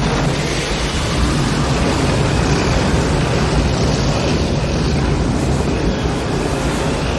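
Strong, continuous tornado-force wind, a deep steady rush with slight swells in the hiss.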